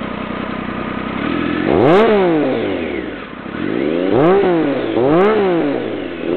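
2004 Triumph Speed Triple SE's inline-three engine, breathing through a 2006–07 Yamaha R6 GYT-R shorty exhaust can, idling and then revved three times. Each blip of the throttle rises quickly and drops straight back to idle.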